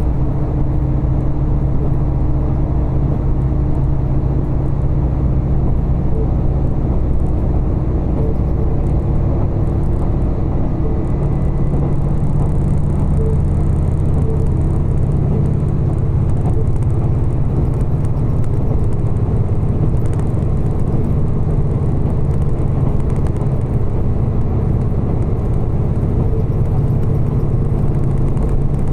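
Steady running noise of a diesel railcar heard from inside the passenger cabin: a constant low engine drone with the rumble of the train underway.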